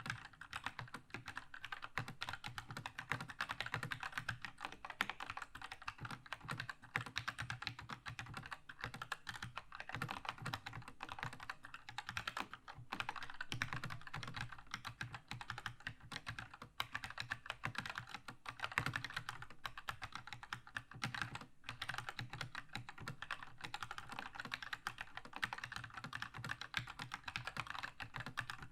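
Continuous fast typing on a Keychron K2 mechanical keyboard with red linear switches: a dense run of key clacks with only a couple of very brief pauses.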